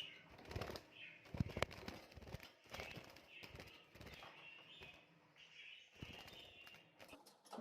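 Irregular clicks and knocks of a small budgie cage and dish being handled as the feed is set inside, with faint budgerigar chirps.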